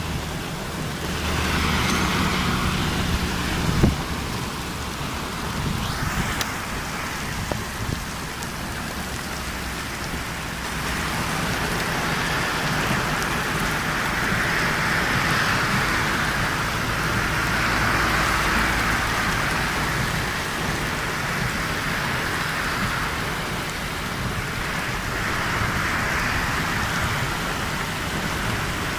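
Heavy rain falling steadily, its hiss swelling and easing in waves. A low hum sits under it in the first few seconds, and a single sharp knock comes about four seconds in.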